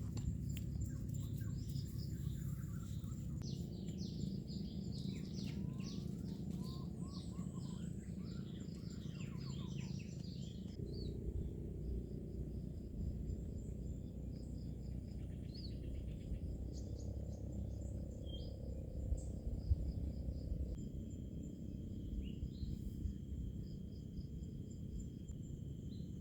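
Birds chirping and calling, busiest in the first ten seconds and then sparser, with insects trilling steadily at a high pitch over a steady low rushing noise. A second steady insect tone joins near the end.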